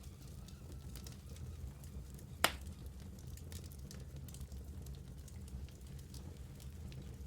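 Wood fire burning in a fireplace with a low steady rumble and scattered small crackles, and one loud sharp pop about two and a half seconds in.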